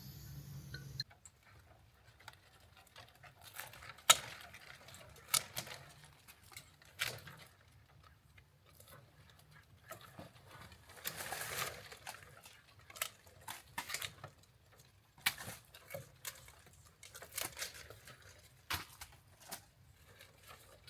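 Scattered light clicks and taps of objects being handled, irregularly spaced, with a brief rustling noise about eleven seconds in.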